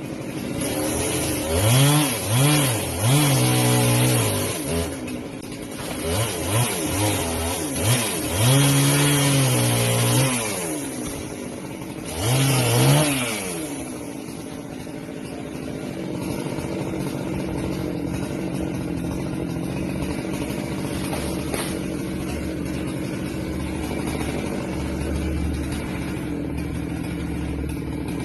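Husqvarna 390XP two-stroke chainsaw revving up and down in repeated bursts, then settling into a steady idle about 14 seconds in.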